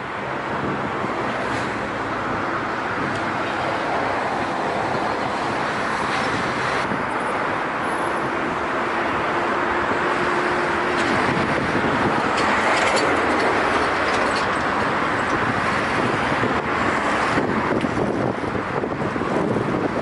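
Volgo-Don type river cargo motor ship under way: a steady rush of engine and water noise that swells slightly past the middle.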